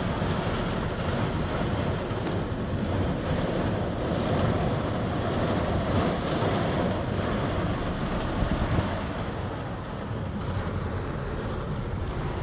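Heavy thunderstorm rain pouring down with wind, a steady rushing noise that swells and eases slightly, with wind buffeting the microphone.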